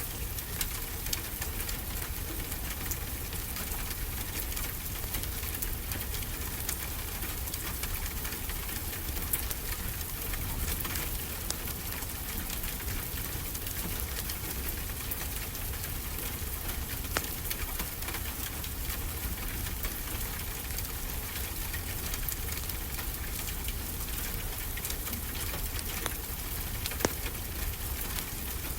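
Steady rain falling, an even hiss over a low rumble, with a few sharp crackles from a wood fire in a fireplace.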